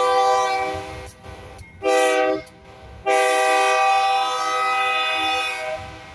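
Air horn of a GE Dash 9-44CW freight locomotive sounding several notes at once: a long blast ends about a second in, then one short blast and a final long blast. This closes the standard grade-crossing signal of long, long, short, long.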